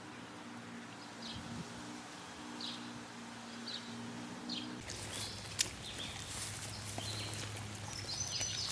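Birds chirping now and then over a low steady hum. The hum cuts off suddenly about five seconds in, and the background turns noisier after that.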